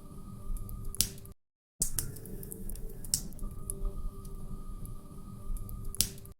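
Log fire crackling in a fireplace: a low steady rumble of burning with scattered small ticks and two loud sharp pops, about a second in and near the end. The sound drops out completely for a moment twice.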